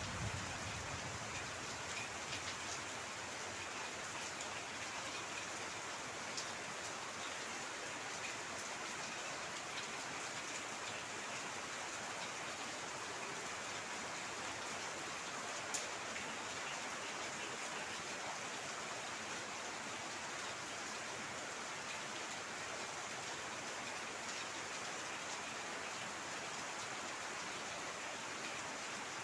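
Heavy rain falling steadily, with scattered drop taps and one sharp tap about halfway through.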